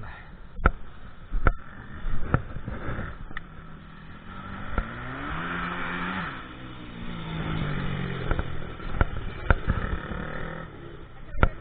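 KTM EXC 350 dirt bike engine rising in revs to a peak about six seconds in, dropping back, then rising and easing off again. Several sharp knocks are scattered through.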